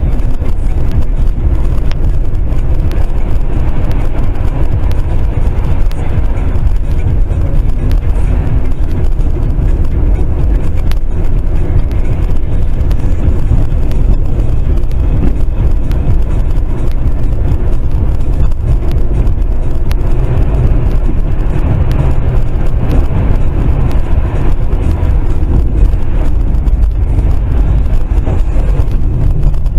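Steady low rumble of a car on the move: road and engine noise heard inside the cabin, with no distinct impacts.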